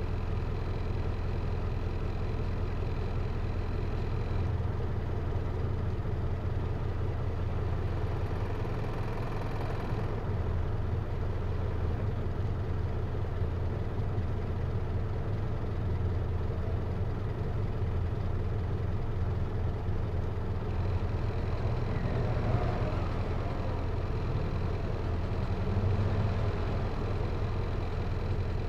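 Diesel engine of a Hino Liesse microbus heard from inside the cabin, running steadily at low revs with a deep hum. Its note shifts briefly about three-quarters of the way through.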